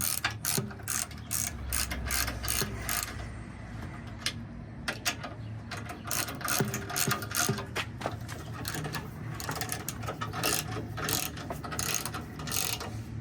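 Hand ratchet wrench clicking through runs of quick strokes as a bolt is tightened, with a short pause about four seconds in.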